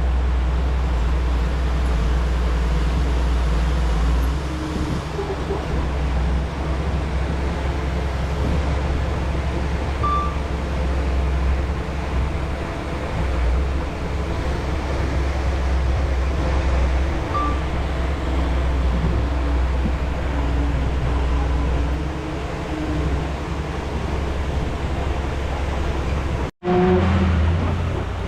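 Bulldozer's diesel engine running steadily at working speed, a constant low rumble. The sound cuts out for an instant near the end and resumes.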